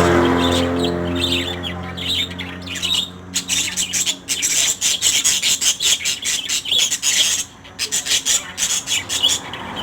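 Pet parrots (nuri) squawking and chattering in quick, sharp, scratchy calls that crowd together from about three seconds in. A low steady hum underneath fades out over the first few seconds.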